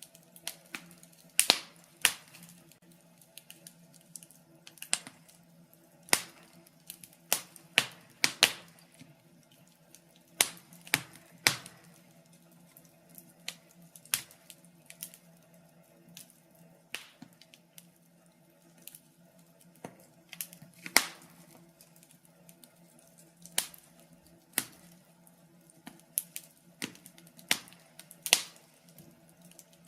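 Wood fire in a fireplace crackling, with sharp irregular pops and snaps every second or two over a faint steady hum.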